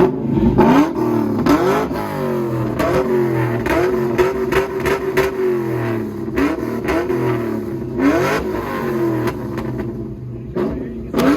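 A car engine being revved hard in repeated quick throttle blips, the pitch shooting up and dropping back each time, with one longer held rev about halfway through.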